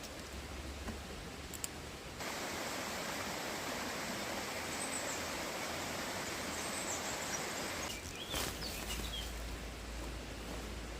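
Outdoor ambience: a steady, even rush of noise with a few faint, high bird chirps. It turns suddenly louder about two seconds in and shifts again near the end.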